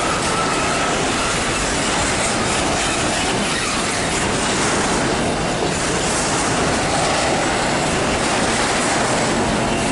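Freight train wagons rolling by on the rails, a steady clatter of wheels with faint squealing from the wheels now and then.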